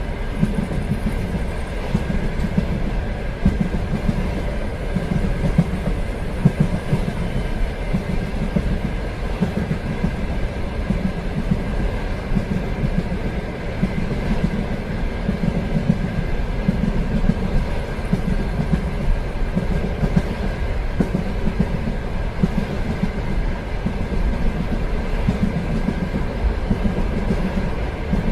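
Train running along the rails: a steady low rumble that swells and eases every second or two, with a faint steady whine and occasional light clicks from the wheels and track.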